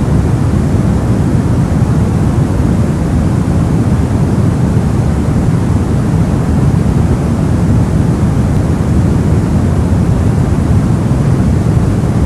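Steady soft white noise: a smooth, even hiss weighted toward the low end, without any change in level or character.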